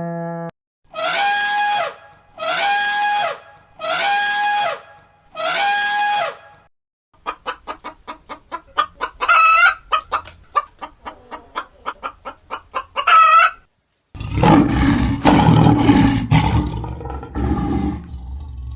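Domestic hen clucking rapidly, broken by two shrill squawks. Before it come four identical long calls at a steady pitch. After it comes a rough, low, noisy animal sound.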